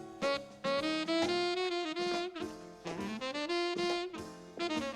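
Jazz saxophone playing a melodic phrase of held notes, some bending and sliding in pitch.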